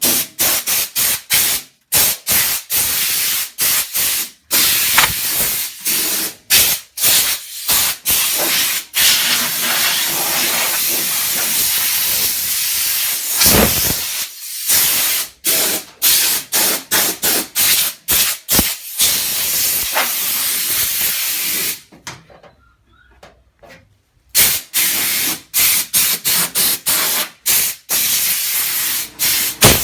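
Compressed-air blow gun hissing in many rapid short bursts and a few longer blasts, blowing dust and metal bits out of a car floor, with a brief pause about two-thirds of the way through.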